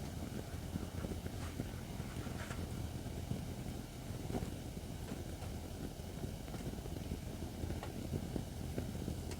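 Acacia firewood burning in a fire pit stand: a steady low rumble of the fire with scattered crackles and pops every second or two.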